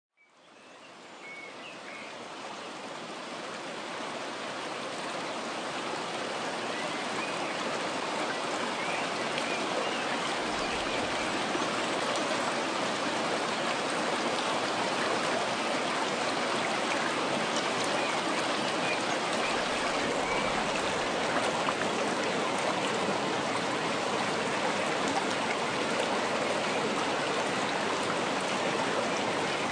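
Steady rush of flowing stream water, fading in over the first several seconds.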